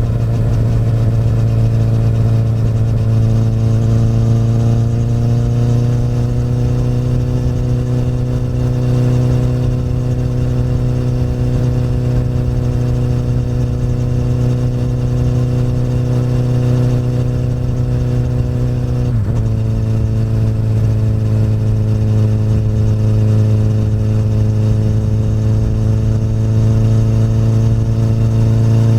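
Honda CBR1000RR inline-four running through an Akrapovic exhaust at a steady engine speed while riding. The note creeps slightly higher early on, then dips briefly about two-thirds of the way through before settling again.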